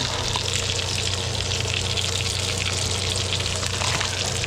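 Food sizzling and crackling steadily in a hot pan on the stove, with a steady low hum underneath.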